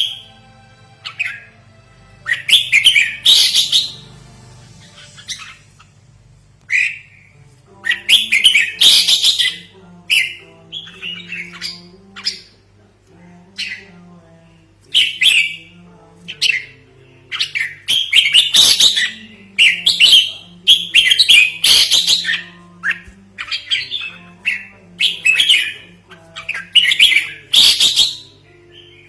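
Red-whiskered bulbul calling: loud, short, chattering phrases repeated every second or two, over a soft background melody and a faint steady hum.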